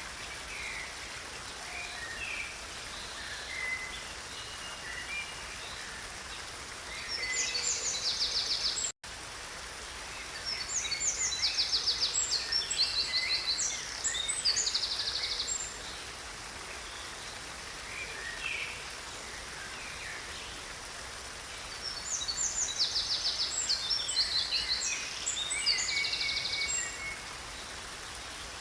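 Steady rush of flowing water with songbirds singing over it: scattered chirps, and three spells of fast trilling song, the loudest part, near the start, in the middle and toward the end. The sound cuts out for an instant about nine seconds in.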